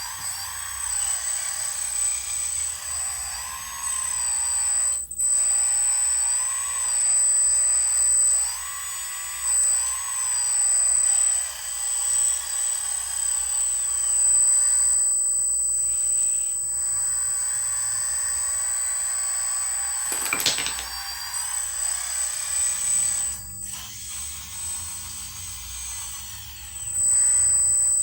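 Small electric hydraulic pump on a converted RC dump truck whining steadily. Its pitch rises and falls in swells as the pump takes on and sheds load working the hydraulics. A sharp knock comes about twenty seconds in.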